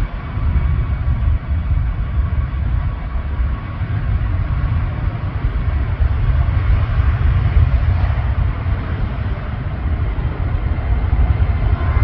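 Jet airliner engines running, a steady low rumble with a faint high whine.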